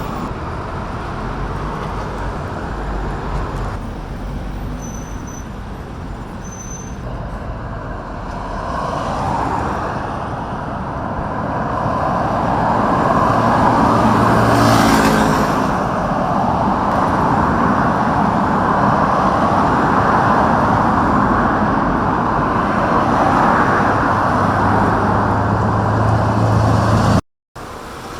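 Loud, steady vehicle noise that swells about halfway through as something passes close, then stays loud. It cuts out briefly near the end.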